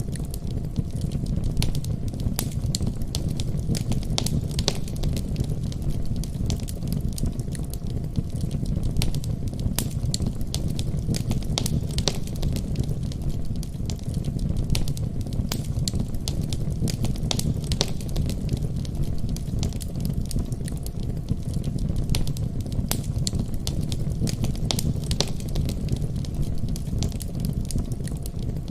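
Wood fire burning in a fireplace, with a steady low rumble of flames and many small irregular crackles and pops.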